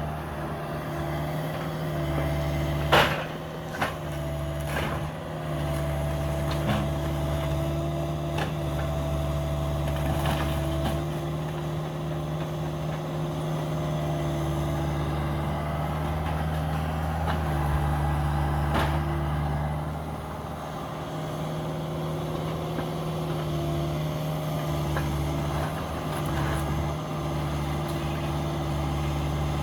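Cat 305 mini excavator's diesel engine running steadily, its note dipping and rising a few times as it works. Sharp cracks and knocks of demolition debris break in, the loudest about three seconds in and another near nineteen seconds.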